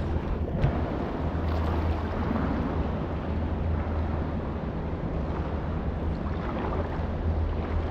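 River water rushing steadily around an inflatable kayak, with a constant low rumble underneath.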